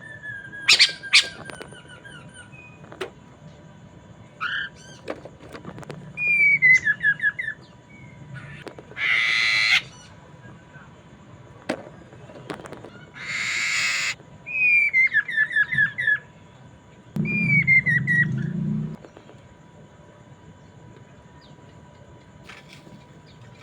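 Chinese hwamei (poksay mandarin) singing in separate phrases: clear whistles that slide downward and break into quick runs of falling notes, interrupted twice by harsh rasping bursts, with short pauses between phrases.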